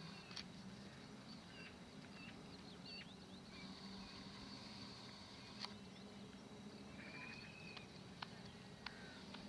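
Quiet open-air ambience: scattered small bird chirps and short whistles over a low steady hum, with a few faint clicks.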